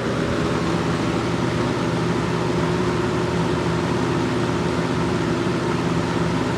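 Lakewood P223 box fan running on high speed: its McMillan motor hums steadily under an even whoosh of moving air. A faint tone shifts slightly in the first second as the motor settles at the new speed.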